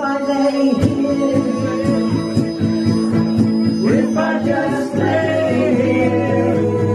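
Live acoustic music: a guitar strummed in a steady rhythm under sustained melody notes, with no words sung.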